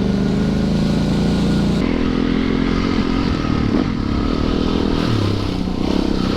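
Yamaha YZ450FX dirt bike's single-cylinder four-stroke engine running under throttle on the trail, its pitch shifting about two seconds in and again near five seconds as the rider changes throttle and gears.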